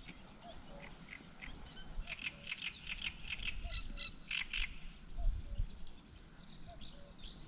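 Birds calling: a short soft call repeating about every three-quarters of a second, with a burst of quick chirping in the middle, over a low outdoor rumble.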